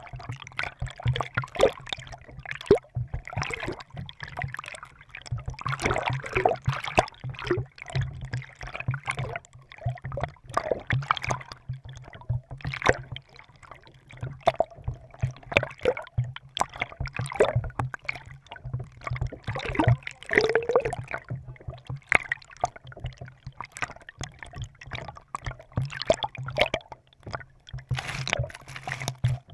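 Kayak paddle strokes: water splashing and gurgling as the paddle dips in, recurring every second or two, with water lapping along the kayak's hull.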